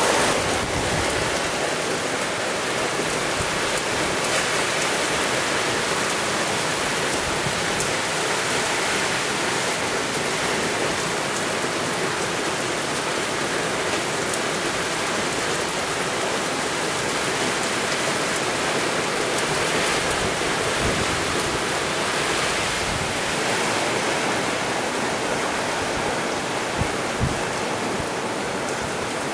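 Heavy rain pouring down in a windstorm, a steady, even hiss of downpour on the roof close by. Two short knocks come near the end.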